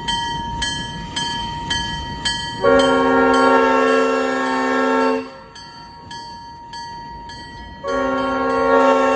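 Locomotive bell ringing about twice a second, then the locomotive's horn sounding a chord in two long blasts, the second still going at the end, as the train pulls away.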